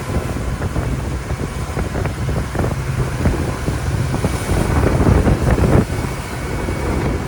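Tour boat's engine running under way, with wind buffeting the microphone.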